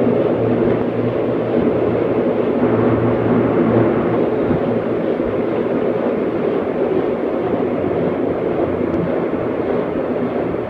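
Seoul subway Line 2 train running, a steady rumble with a low hum, heard from inside the carriage; the rumble eases slightly toward the end.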